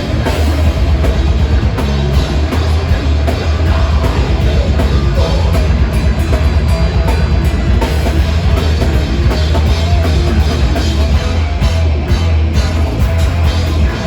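Metal band playing live: loud drum kit and guitars in a steady, continuous stretch of a song.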